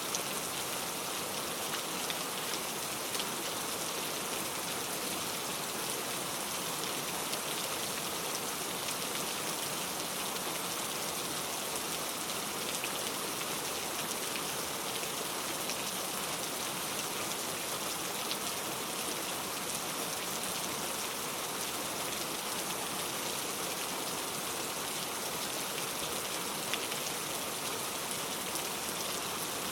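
Steady heavy rain, an even hiss with scattered individual drops ticking on a surface, without thunder.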